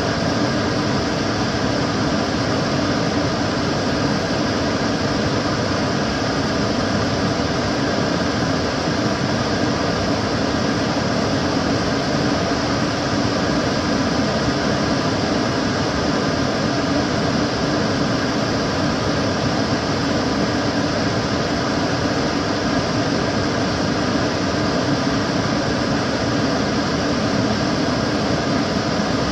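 Kitchen cooker hood extractor fan running steadily: an even whooshing rush of air with a faint hum, unchanging in level.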